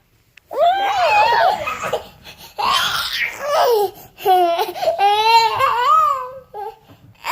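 A young child laughing and squealing in high pitch, in three long bouts with short breaks between them.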